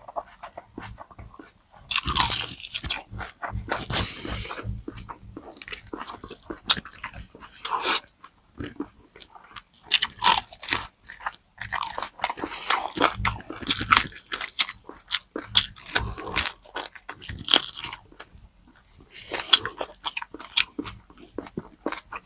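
Close-miked eating: crispy pata (deep-fried pork knuckle) being bitten and chewed, with loud crackling crunches in several bursts and quieter chewing between them.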